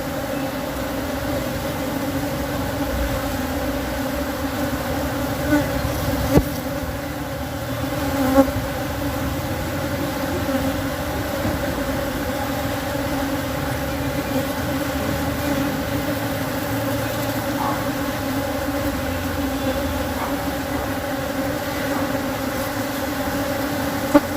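Asian honey bees (Apis cerana) buzzing steadily in a dense hum around a hive that is being split into a new colony. A few brief knocks sound about six and eight seconds in and again near the end.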